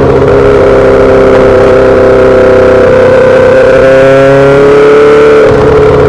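A 2008 Yamaha R6's inline-four engine running loud through a full SC-Project aftermarket exhaust. Its note holds a fairly steady pitch that creeps slowly upward, with brief changes in the note just after the start and again about five and a half seconds in.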